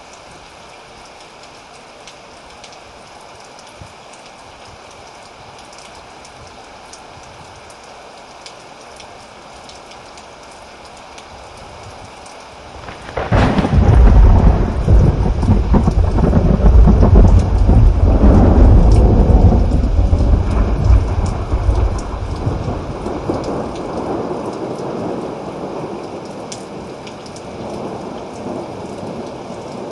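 Steady rain falling, then a loud, deep roll of thunder that breaks in suddenly about 13 seconds in, rumbles for several seconds and slowly dies away under the continuing rain.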